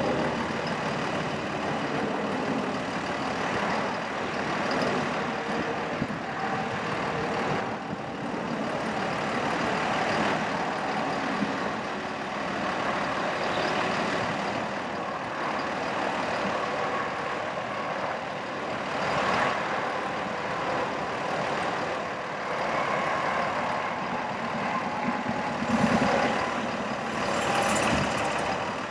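Diesel engine of a 2005 Freightliner M2 bucket truck running steadily, with a few brief louder surges near the end.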